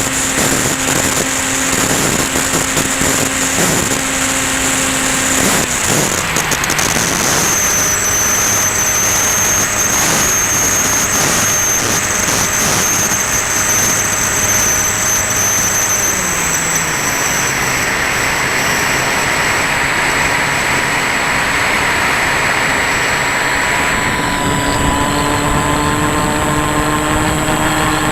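Electric motor and pusher propeller of a Ranger EX RC plane running in flight over a steady rush of air. The pitch drops a few seconds in and again about two-thirds of the way through, then settles on a new steady tone near the end as the throttle changes.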